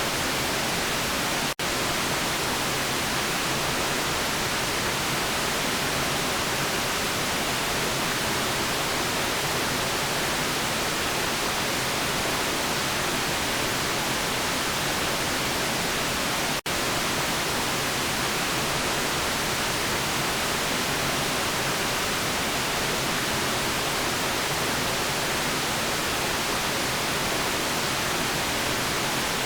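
Steady white noise, an even hiss spread across the whole range, briefly cutting out twice: about a second and a half in and about sixteen and a half seconds in.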